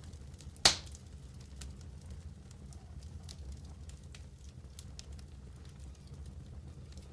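Wood fire burning in a fireplace, with a low steady rumble of the flames and scattered crackles. One loud sharp pop comes about two-thirds of a second in.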